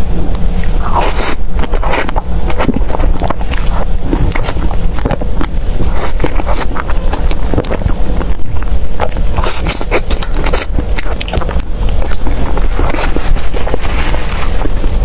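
Close-miked eating of soft desserts: a steady, irregular run of bites, sticky chewing clicks and scrapes.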